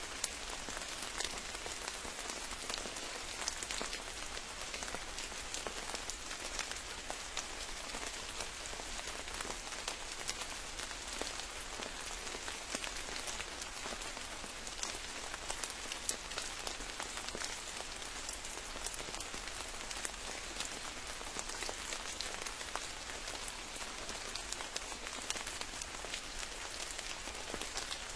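Steady rain falling, a dense even hiss with many sharp drop ticks pattering on a surface.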